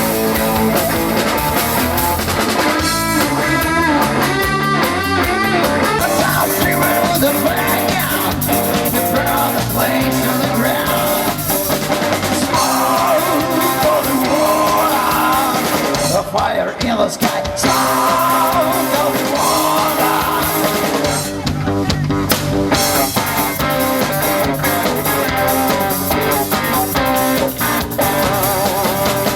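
Live rock band playing: electric guitar and drum kit, with a melodic lead line over the top.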